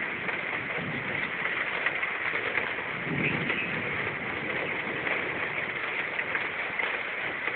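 Heavy rain falling in a steady hiss, with a few brief low sounds about three seconds in.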